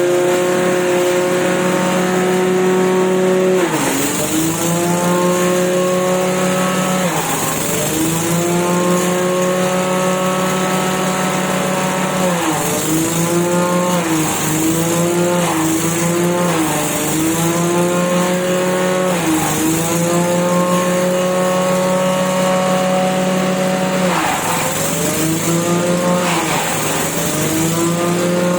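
Engine-driven grass chopper running hard with a steady motor tone. Every few seconds the pitch sags, about eight times in all, then picks back up, as the machine bogs under each load of grass being chopped.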